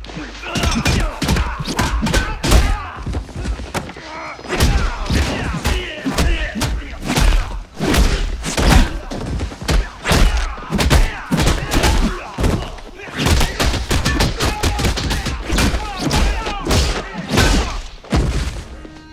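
Rapid, dense flurry of dubbed punch and kick impact sound effects: many hard thuds and whacks in quick succession, with a few short lulls.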